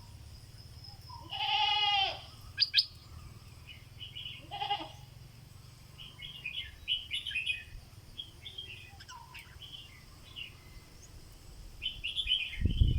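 Stripe-throated bulbul chirping in short repeated bursts. Two louder, wavering calls break in, the first about a second in and a fainter one near five seconds.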